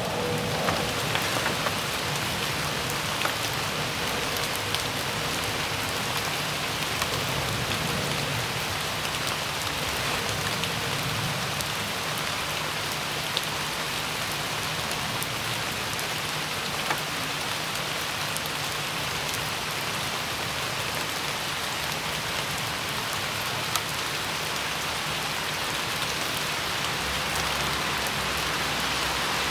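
Steady rain falling, a dense even patter with scattered sharper drop hits.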